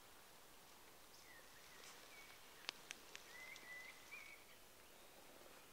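Quiet evening woodland with faint bird calls: a few short whistled notes in the middle, and three sharp clicks in quick succession among them.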